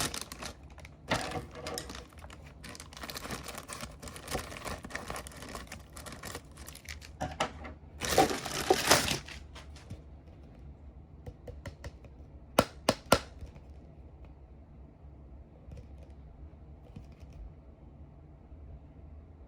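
Packaging being handled and crinkled, a busy rustle for about nine seconds with a louder burst near the end of it. A few seconds later come three sharp clicks in quick succession, then only faint room noise.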